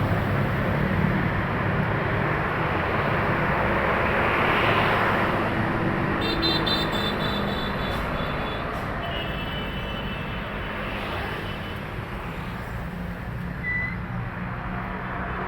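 Heavy road traffic with trucks passing close by: a steady low engine rumble with tyre noise, swelling as a vehicle passes about four to five seconds in. Brief high-pitched tones sound about six and nine seconds in.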